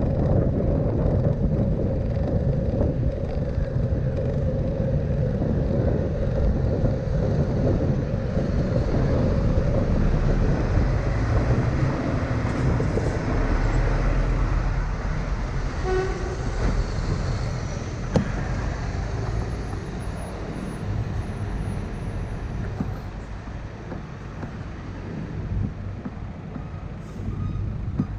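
City street traffic, vehicle engines and tyres, heard from a moving bicycle with wind rumbling on the microphone; the noise eases off over the second half.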